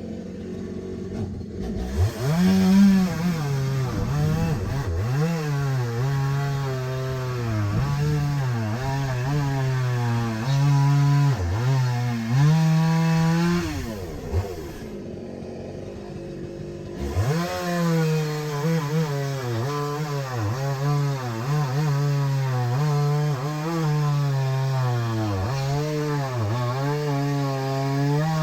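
Two-stroke chainsaw cutting firewood logs, its engine revving high and dipping under load again and again. It drops back to idle twice, near the start and about halfway through, before speeding up for the next cut.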